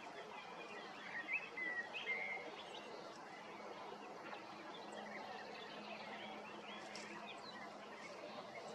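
Small songbirds chirping: a cluster of short, quick chirps about a second in, then scattered fainter chirps over a steady low hum.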